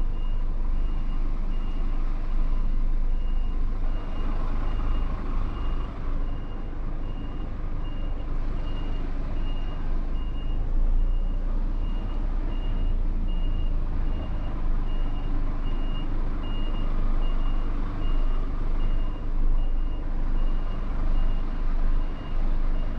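A truck's warning beeper sounding a steady high beep about twice a second over the low rumble of the truck's engine as it moves slowly.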